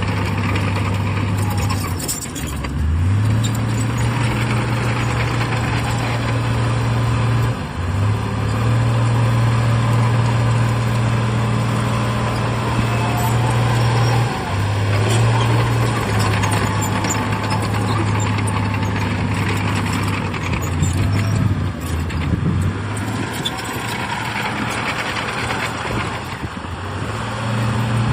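Heavy diesel engine of earthmoving machinery running under steady power, its engine speed dropping and stepping back up several times.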